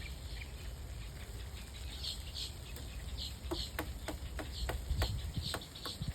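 Woodpecker pecking at wood as it excavates its nest hole: a run of sharp taps starting about halfway through, about four a second. Birds chirp throughout.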